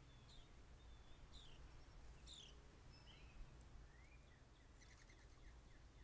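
Faint outdoor bird calls: a scatter of short high chirps and slurred whistles, including a quick run of notes about five seconds in, over a low steady rumble.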